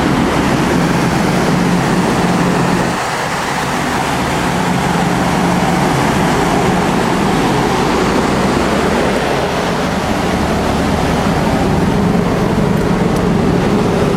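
Steady, loud drone of a ferry's machinery: a constant rushing noise with a low engine hum underneath.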